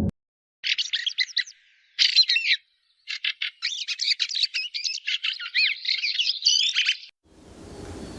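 A songbird singing rapid, high-pitched chirps and warbling trills in three runs, the last about four seconds long.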